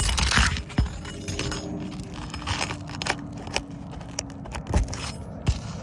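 Scraping, with scattered sharp cracks and clicks, as a roofing tool is worked under an asphalt shingle during a repairability test. The loudest scrape comes right at the start.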